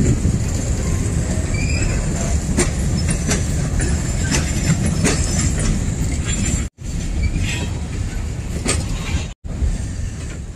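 Freight train of covered hopper cars rolling through a rail yard: a steady rumble with frequent clicks of wheels over rail joints and a few short wheel squeals. The sound cuts out abruptly twice, about two-thirds of the way through and again near the end.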